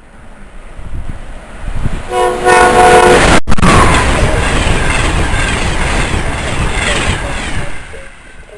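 A train sounds one short horn blast of several tones at once, then passes at speed with a loud rushing of wheels on rail that dies away near the end.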